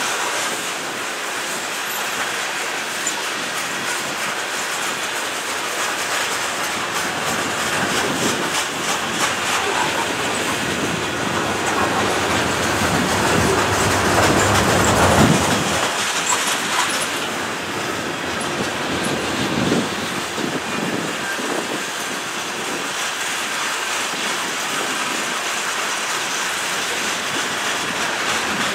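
Covered hopper cars of a freight train rolling past, their wheels clicking rapidly and steadily over the rail, swelling somewhat louder about halfway through.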